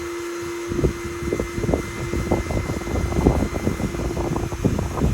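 Irregular low rumbling gusts of wind buffeting the microphone, with handling knocks, starting about a second in. Under them is a steady low hum that fades.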